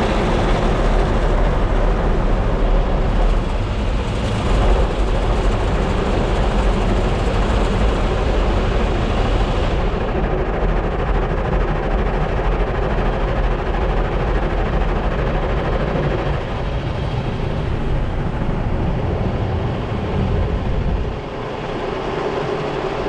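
Automatic car wash in operation: a loud, steady rush of machinery and spray noise. The hissing upper part of the noise cuts off abruptly about ten seconds in while the deep rumble carries on.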